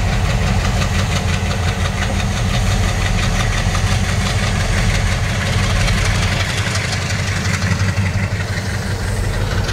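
A large engine running steadily at idle, with a fast, even knocking beat.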